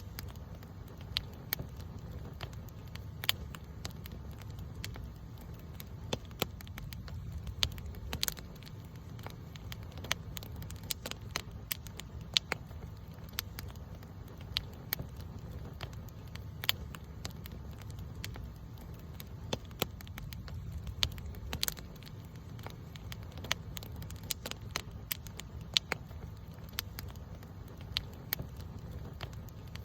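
Campfire burning steadily: irregular sharp crackles and pops of burning wood over a low, steady rumble of flame, with a few louder pops scattered through.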